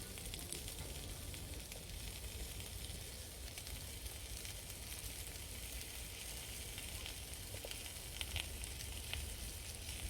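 Cabbage, seafood sticks and butter beans frying in oil in a pan: a steady sizzle with small crackles.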